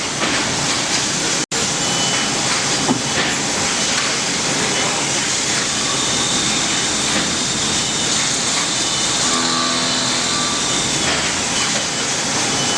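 HAAS SL-20 CNC lathe running, a steady loud hiss of machine and shop noise, with a thin high whine held for several seconds in the middle.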